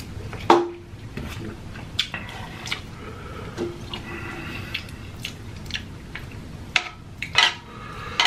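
Close-up eating sounds: wet chewing and mouth noises from a mouthful of instant noodles, with scattered small clicks and taps of chopsticks and a noodle cup. A sharp knock about half a second in is the loudest sound.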